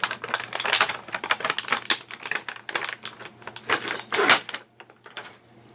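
Rapid, irregular clicking and clacking of small hard plastic pieces as action-figure accessories and packaging are handled. The clicks stop near the end.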